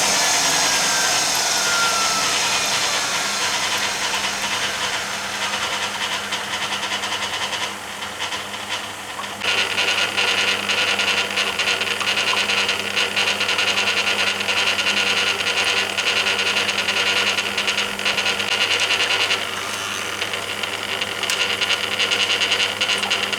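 Hoover Keymatic A3112 washing machine drum coasting down after its 500 rpm interim spin, with a falling whine early on fading out. About nine seconds in, water starts rushing into the drum with a steady hiss as the fill for the third rinse begins.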